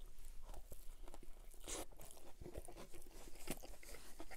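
Close-miked chewing of a McDonald's Big Mac: a bite, then chewing with many small wet clicks and smacks.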